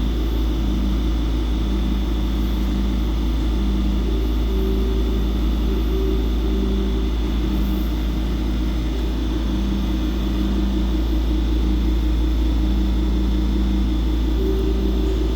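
Electric train's steady low rumble with an on-and-off electrical hum and a faint high whine.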